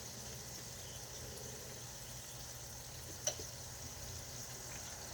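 Steady low hum and hiss of kitchen background noise, with one short click about three seconds in.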